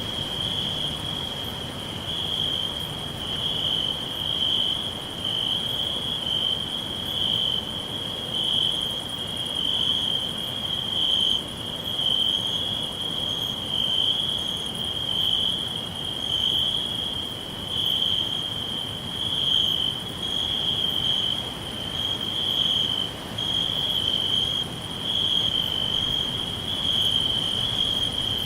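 Crickets chirping in a steady high trill that swells and fades every second or so, over a low even hiss.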